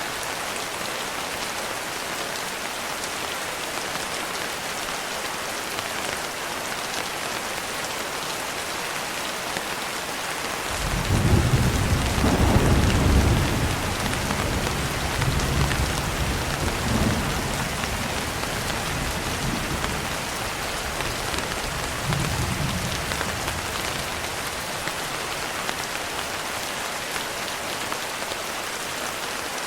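Steady heavy rain with a roll of thunder. The thunder starts suddenly about a third of the way in, is loudest in the first couple of seconds, then rumbles on in weaker swells and fades out under the rain.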